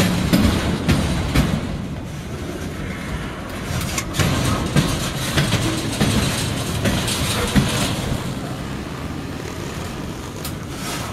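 Freight cars rolling past close by: steel wheels rumbling on the rails, with irregular clacks and knocks as the wheels cross bolted rail joints.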